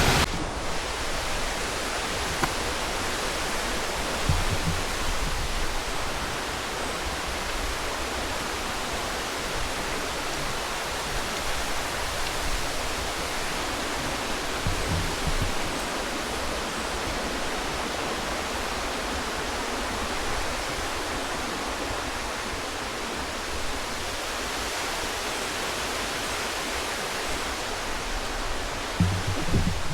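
Steady rush of flowing water, a waterfall or rapids, with a few soft low thumps.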